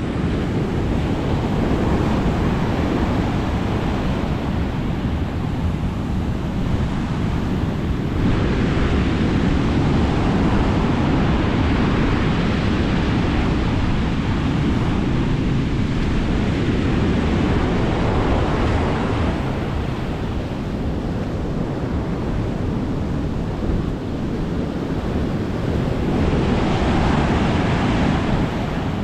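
Sea waves breaking and washing up on a beach, the surf swelling louder in long surges, with wind buffeting the microphone.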